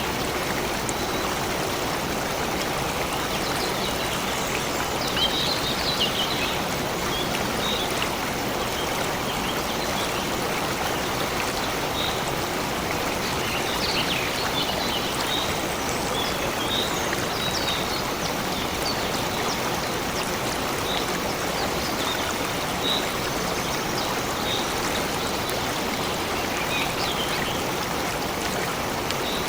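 A flowing stream running steadily over stones, with scattered short high chirps of small birds over it.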